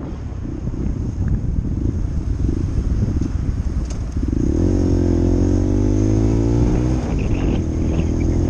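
125cc motorcycle engine running under way, with wind rumble on the microphone; about four seconds in a steady engine note comes up clearly and sags slightly in pitch.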